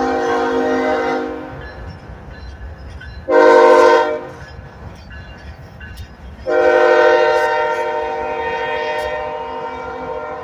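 Diesel locomotive air horn on a BNSF ES44C4 sounding a chord of several tones. A long blast ends about a second in, a short blast comes about three seconds later, and a final long blast starts near the middle and fades away. This is the end of a grade-crossing signal, with the engine rumbling underneath.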